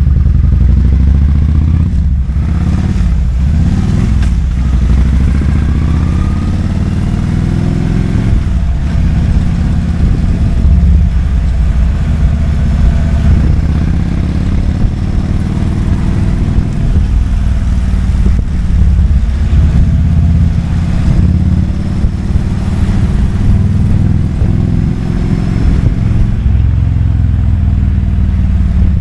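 Kawasaki Vulcan 2000's 2,053 cc V-twin running under way. Its revs rise and fall a few times in the first several seconds, then it pulls fairly steadily.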